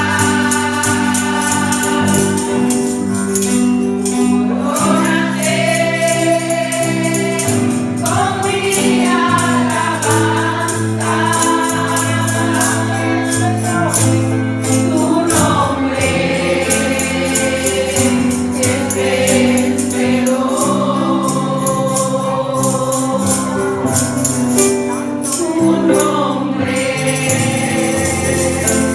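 Worship song sung by a group of voices over sustained keyboard and bass notes, with a tambourine shaken in a quick steady rhythm throughout.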